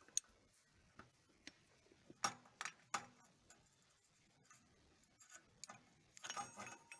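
Metal tool being handled: a scatter of sharp metallic clicks and clinks, with a denser run of clinks and a brief metallic ring about six seconds in.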